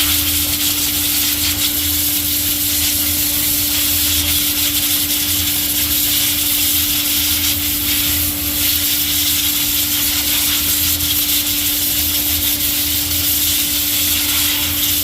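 Compressed-air blowgun blowing water off a freshly rinsed 3.7 Chrysler cylinder head, drying it so it won't rust. A loud, steady hiss that starts suddenly and is held without a break, over a steady low machine hum.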